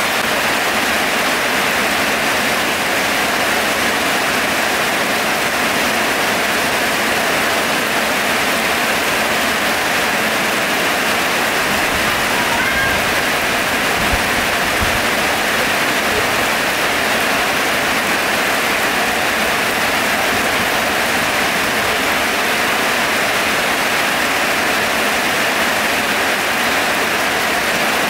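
Heavy rain falling, a steady even hiss of water with no let-up.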